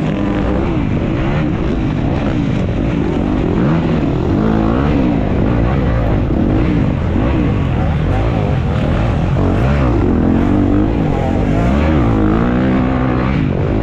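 Dirt bike engine revving up and down repeatedly under race throttle, the pitch rising and falling every second or so.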